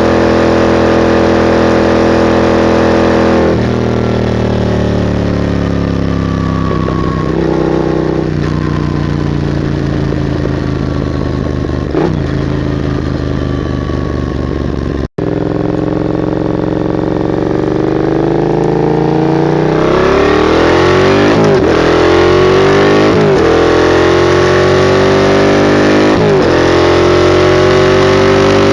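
Yamaha MT-07's 689 cc crossplane parallel-twin engine through a straight-piped Mivv GP exhaust, heard while riding. It runs steadily at first, then comes off the throttle with the revs falling for about ten seconds. After a very brief dropout it accelerates through the gears, with three quick upshifts near the end.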